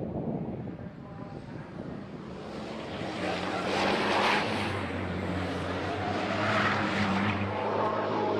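Racing trucks' diesel engines running hard on track, with a steady drone that builds and swells loudest twice, about four and seven seconds in.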